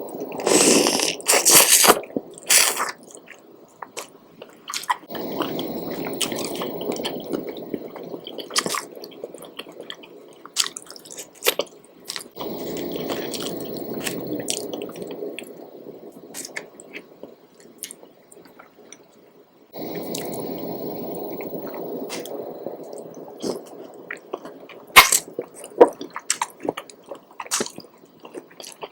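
Close-miked eating sounds: wet chewing in stretches of several seconds, broken by sharp mouth clicks and smacks. The loudest come near the start and again late on.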